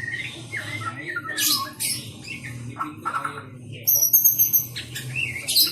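White-rumped shama singing a quick, varied song of whistles, rising and falling notes and harsh chattering calls, with a run of high, thin notes about two-thirds of the way in.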